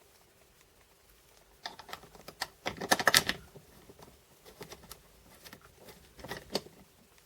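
Light clicking and rattling of small metal parts handled by hand: the stainless steel shim plate and its bolts being fitted to the Honda S2000 soft-top roof striker. A quick flurry of clicks comes about two to three seconds in, then scattered single clicks.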